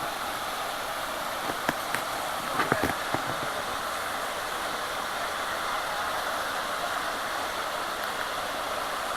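Waterfall pouring in a steady rushing hiss, with a few sharp clicks about two to three seconds in.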